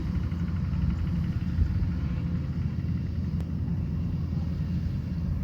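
Kubota combine harvester running steadily in the field, a continuous low engine rumble that holds an even level.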